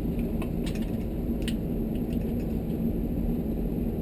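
A steady low background hum, with a few light clicks in the first second and a half as small wire connectors and plastic parts are handled.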